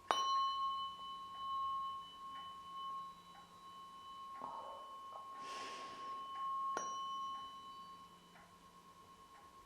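A tuning fork struck twice, about seven seconds apart, each time ringing on with a steady pure tone and fainter higher overtones that slowly fade. A soft breathy noise sounds between the two strikes.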